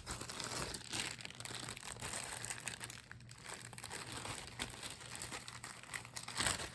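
Small plastic jewelry bags crinkling and rustling as they are handled, with many small crackles.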